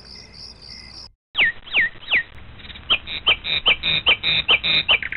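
Crickets chirping in a fast pulsing rhythm, cut off about a second in. Then a bird calls with sharp whistled notes falling in pitch, three spaced apart and then a quickening run of calls.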